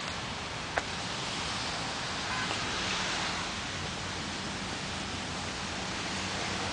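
Steady hiss of rain falling, with a single sharp click just under a second in.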